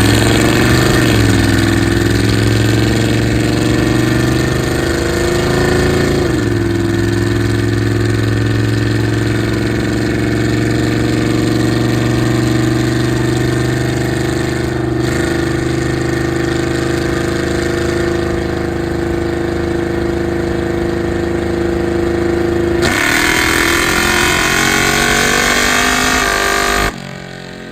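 Dodge Coronet police car's engine running hard on a chassis dynamometer. Its pitch shifts over the first few seconds, then holds steady for a long stretch. About 23 seconds in it turns harsher, its pitch climbing, then drops off suddenly near the end as the throttle is let go.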